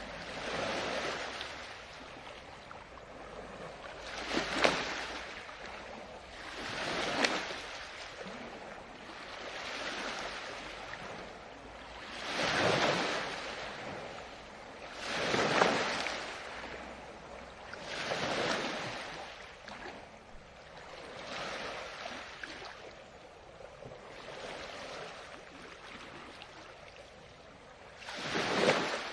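Ocean waves breaking on the shore one after another. Each wash of surf swells and fades every few seconds, some crashing harder than others.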